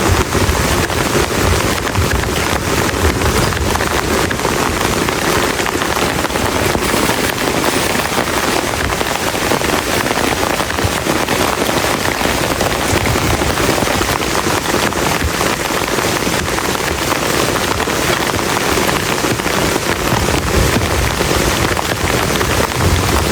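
Very heavy rain falling steadily and densely, with a low rumble near the start and again near the end.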